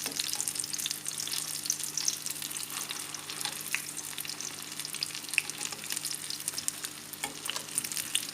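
Lumpiang shanghai (Filipino spring rolls) frying in hot oil: a steady crackling sizzle with scattered small pops.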